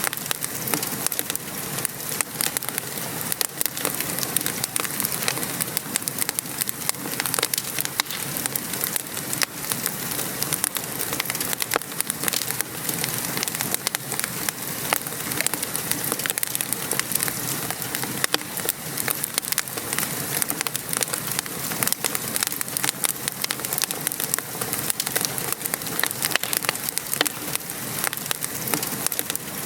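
Wood fire crackling with frequent small pops and snaps over a steady hiss of rain falling.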